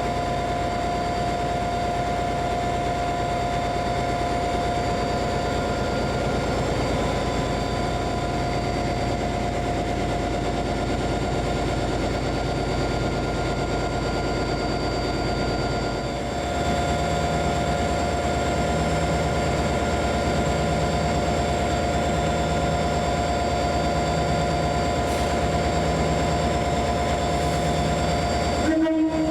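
Diesel locomotive engine idling steadily with a constant whine. About halfway through, the engine note deepens and gets slightly louder. Near the end the sound briefly cuts out.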